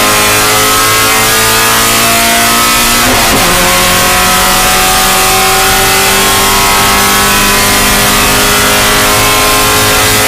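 Spec Miata race car's four-cylinder engine accelerating, its pitch climbing steadily. An upshift about three seconds in drops the pitch, then it climbs again through the next gear.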